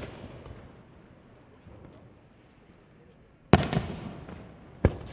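Aerial firework shells bursting: the echo of earlier bursts fades away, then a loud bang about three and a half seconds in trails off in a rumbling echo, and a second sharp bang comes just before the end.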